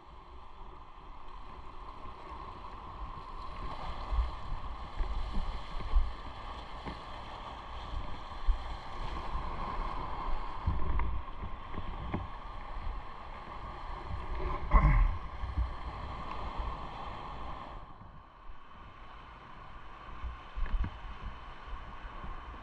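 Motorcycle riding: the engine runs under a steady rush of wind over the microphone, with a brief louder burst about fifteen seconds in, and the sound eases off a little after about eighteen seconds.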